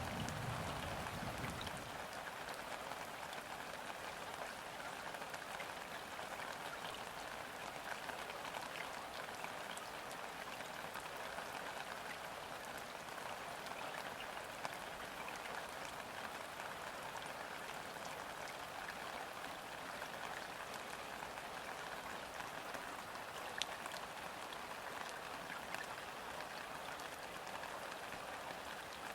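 Steady rain falling onto a river's surface, a dense patter of drops with now and then a single louder drop. A low rumble fades out about two seconds in.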